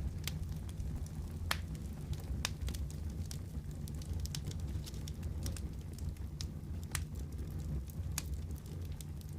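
Wood fire crackling and popping over a steady low rumble of flames, with irregular sharp snaps scattered throughout.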